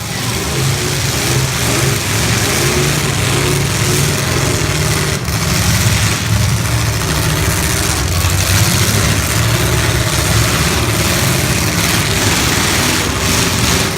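Several full-size demolition derby car engines running and revving together, with occasional faint knocks of metal on metal.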